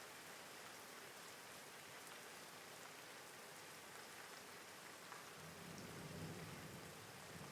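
Steady rain falling, a faint even hiss, with a low rumble of thunder coming in about five seconds in.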